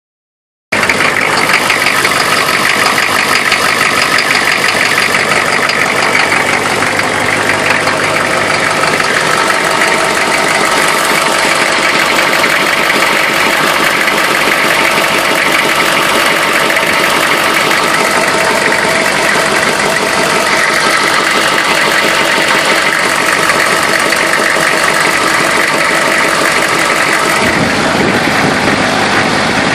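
1994 Chevrolet 6.5-litre V8 turbo diesel engine idling steadily, starting about a second in. Its sound shifts slightly near the end.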